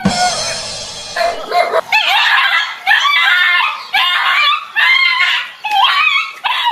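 A dog barking and yelping over and over, about one loud call a second, after a short noisy burst at the start.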